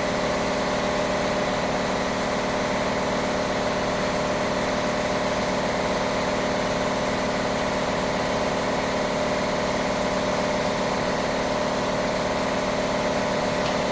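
A motor or engine running steadily at one constant speed, an unbroken mechanical drone with no change in pitch or level.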